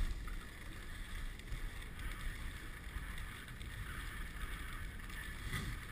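Steady rushing hiss of dog sled runners gliding over a snow trail, with wind buffeting the microphone.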